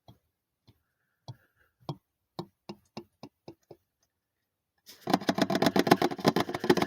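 Motor oil glugging out of a bottle into the engine's oil filler: separate glugs every third to half second, a short pause, then a faster, louder run of gurgling for the last couple of seconds.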